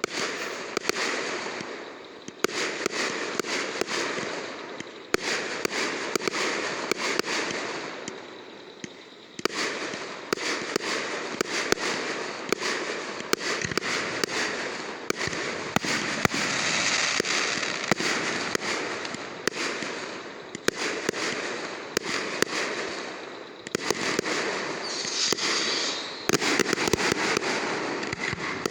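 Fireworks going off in a continuous barrage: many sharp bangs and pops in quick succession over a dense hissing crackle. The loudness rises and falls in waves every few seconds.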